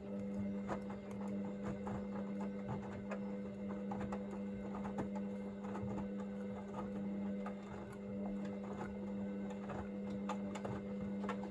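Hoover VisionDynamic washing machine running its wash stage while heating to 40 °C: the drum turning with a steady motor hum, and the tumbling load and water giving frequent irregular soft clicks and taps.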